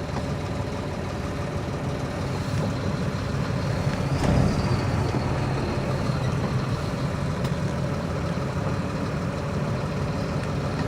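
Steady low rumble of a vehicle engine idling, with a brief swell about four seconds in and a faint high whine that slowly falls.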